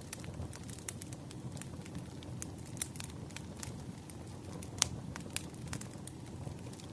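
Firewood burning: a steady low rush of fire with irregular sharp pops and crackles, one louder snap about two-thirds of the way in.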